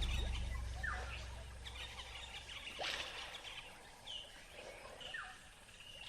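Background music fading out at the start, then faint bird calls: a handful of short chirps, several sliding downward, about a second apart.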